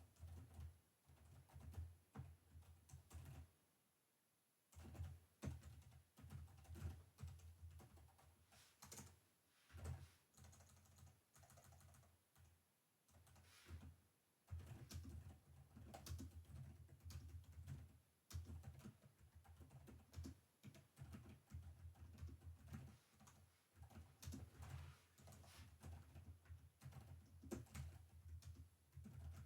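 Typing on a computer keyboard, quiet and close: runs of rapid keystrokes broken by short pauses, with a longer pause about four seconds in and another around twelve to fourteen seconds in.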